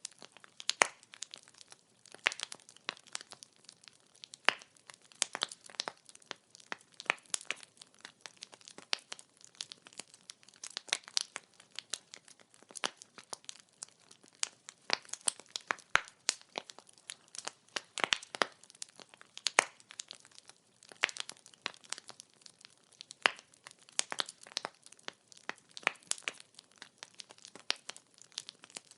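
Wood fire crackling: burning logs popping and snapping in quick, irregular clicks over a soft hiss.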